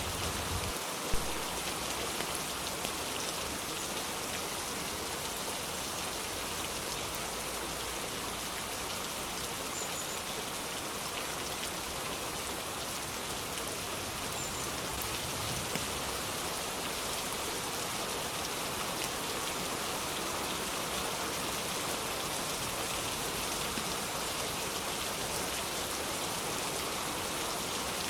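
Steady rain falling, an even hiss of many drops, with one sharp louder tap about a second in.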